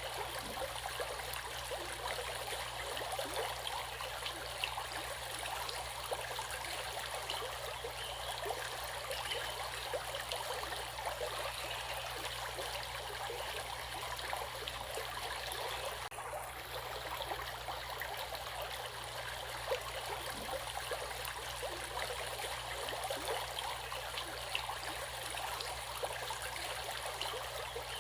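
Running water of a stream: a steady babbling splash, with a few slightly louder splashes here and there.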